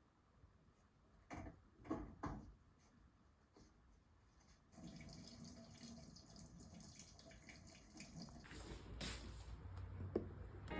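Faint sounds of water, with a few soft clicks in the first few seconds and a faint hiss that grows louder near the end.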